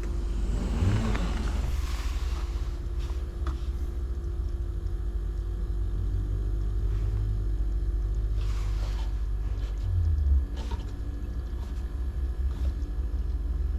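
Refrigerator compressor running with a steady hum under a low, uneven rumble, with a few faint clicks.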